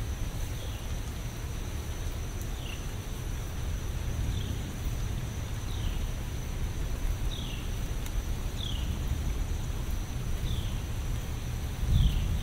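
Steady rain ambience with a low rumble. Over it, a small animal gives a short high chirp, falling in pitch, about once a second.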